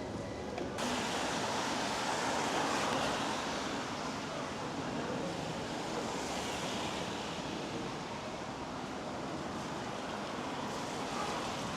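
Rain on a wet city street: an even hiss that gets suddenly fuller and brighter about a second in, then holds steady.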